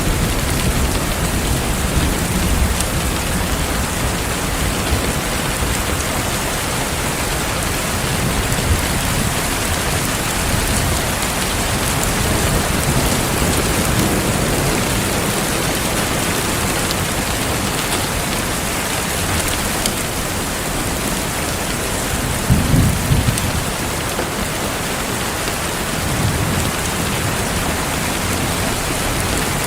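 Heavy rain falling steadily, with low rumbles of thunder; the loudest rumble comes about two-thirds of the way through.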